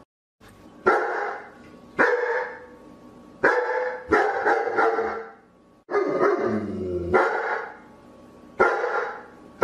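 A dog barking loudly in single barks, about one every second or so, with a quick run of three barks around four seconds in.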